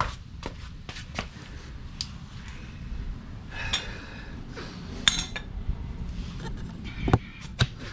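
Loose metal parts and tools clinking and knocking as they are handled, with a couple of brief metallic rings around the middle and two sharper knocks near the end.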